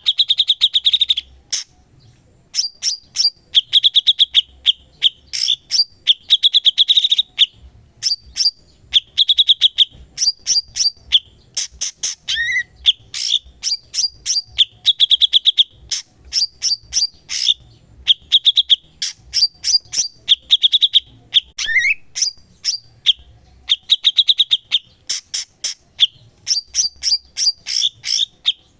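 Cucak cungkok singing continuously: quick runs of sharp chips and short trilled notes, high-pitched, in phrases repeated every couple of seconds, with a rising note twice.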